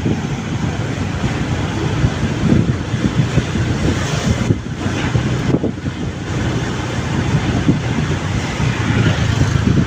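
Wind buffeting the microphone on a moving motorbike, over the bike's engine and road noise, with two brief lulls about halfway through.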